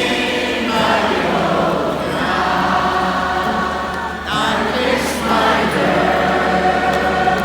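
Live folk-rock band music with many voices singing together, a concert crowd singing along in a choir-like mass.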